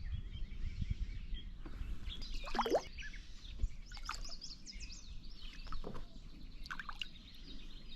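Birds chirping and calling, a string of short calls with one longer sweeping call a few seconds in, over a steady low rumble of outdoor background noise.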